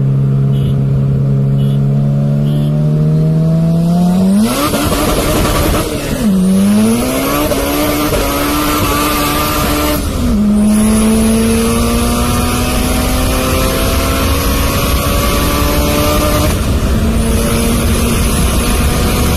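High-revving car engine accelerating hard through the gears: its pitch climbs steadily, drops sharply at each upshift about six, ten and sixteen seconds in, then climbs again. A loud rushing noise joins in about four seconds in and stays.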